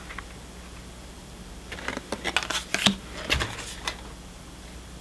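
Pokémon trading cards being handled and flipped through by hand: a cluster of short clicks and rustles starting about two seconds in and lasting about two seconds.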